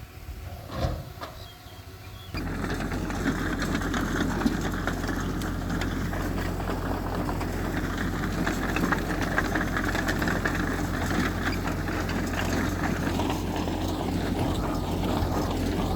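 Heavy diesel machinery engine running steadily, coming in abruptly a couple of seconds in after a quieter stretch with a single knock about a second in.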